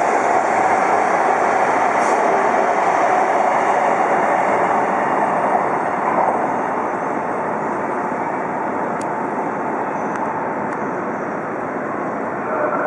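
Shinkansen train running alongside the platform: a steady, loud rushing noise of wheels and air that eases off a little about halfway through.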